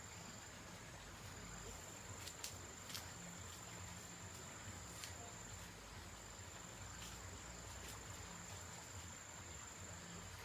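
Insects trilling faintly in one steady high tone, with a few soft clicks.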